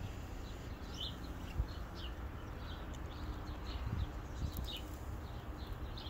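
Small birds chirping, many short downward chirps a few times a second, over a low rumble of wind on the microphone.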